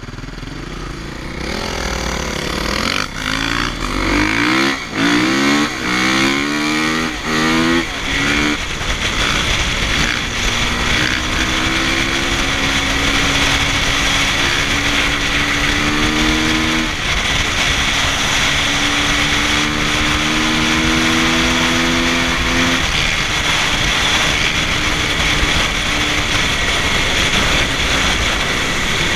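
Motocross bike engine revving and accelerating, its pitch climbing and dropping back in quick steps through several gear changes in the first several seconds. It then runs at a steady speed, with a shift about halfway through and another near the end.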